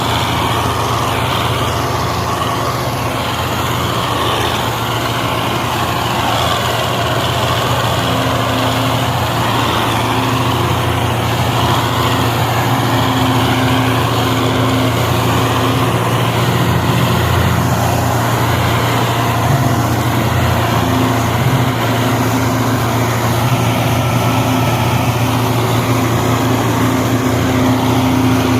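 Belarus 510 tractor's diesel engine running hard and steadily under heavy load, pulling a loaded sugarcane trailer while stuck.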